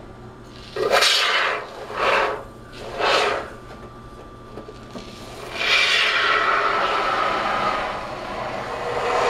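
Can of expanding polyurethane spray foam being sprayed: three short hissing spurts about a second apart, then a longer continuous hiss starting about halfway through.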